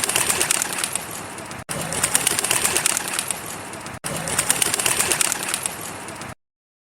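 A flock of birds' wings flapping and fluttering in flight, a rapid dense flutter. A short clip of it plays three times in a row with abrupt cuts, and it stops suddenly near the end.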